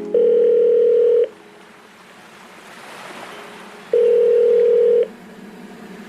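Two long steady electronic tones, each about a second, about three seconds apart, with a soft rushing hiss swelling and fading between them.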